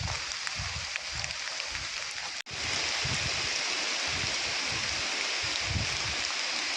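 Steady outdoor hiss with wind buffeting the microphone in irregular low rumbles. The sound drops out for an instant about two and a half seconds in, then the hiss resumes slightly louder.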